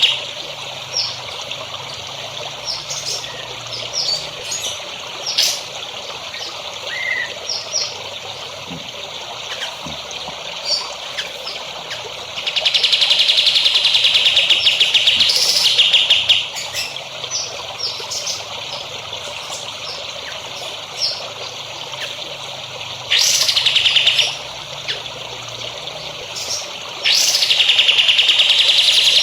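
Songbird singing long, rapid, buzzy trills, three of them, the first about twelve seconds in and the last running to the end, with short scattered chirps between, over steady trickling water.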